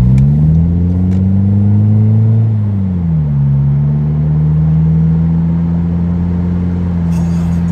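Car engine heard from inside the cabin while accelerating: the revs climb, drop sharply about three seconds in, then hold steady as the car keeps gathering speed.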